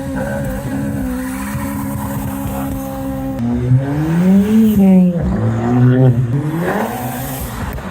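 Car engine pulling away under load. The engine note holds steady for a few seconds, then rises, drops sharply as it shifts gear, and climbs again near the end.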